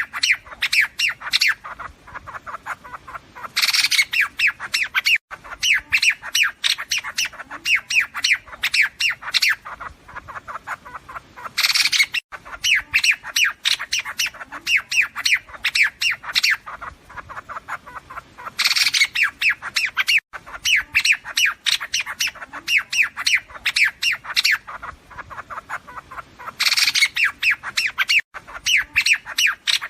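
Liếu điếu bird calls played as a trapping lure: rapid runs of short, harsh chattering notes. A louder, harsher burst comes in about every seven to eight seconds.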